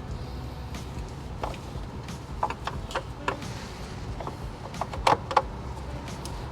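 A hand wrench clinking on a fan shroud bolt as it is worked loose by hand, in short irregular clicks with the loudest pair about five seconds in, over a low steady rumble.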